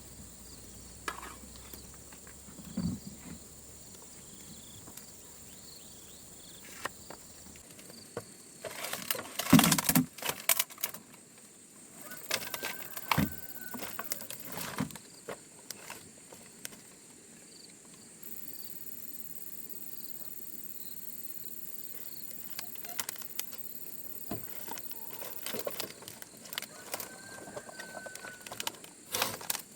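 Scattered knocks, snaps and rustles, with a dense cluster loudest about ten seconds in, over a steady high buzz of insects that grows stronger from about eighteen seconds in.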